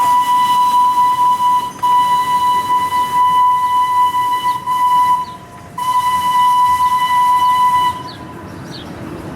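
Train whistle blowing: a long, steady, single-pitched blast with a brief break about two seconds in. It drops out for a moment just after five seconds, sounds again, and stops about eight seconds in.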